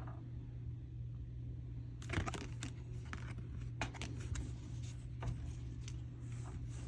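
Faint soft clicks and rustles of oracle cards being handled, starting about two seconds in, over a steady low hum.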